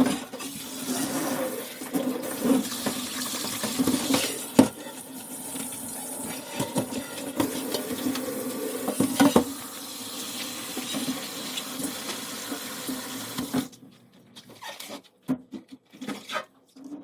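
Water running from a tap into a sink, with a few sharp knocks, shutting off about 14 seconds in; scattered small clicks follow.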